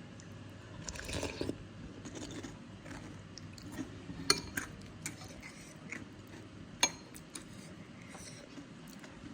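Close-miked chewing and biting of food, with scattered sharp crunches or clicks, the loudest two about four and seven seconds in.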